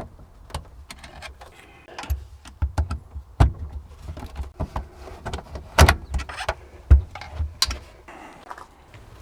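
Tools and metal car parts being handled during dismantling: a run of irregular clicks and knocks, the sharpest about three and a half, six and seven seconds in.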